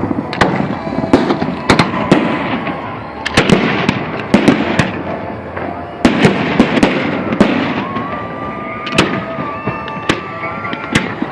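Fireworks going off in an irregular string of sharp bangs and crackles, several a second, with a high wavering whistle about two-thirds of the way through.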